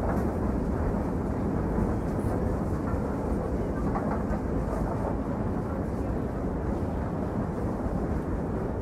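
Train running along the line, heard from on board as a steady low rumble.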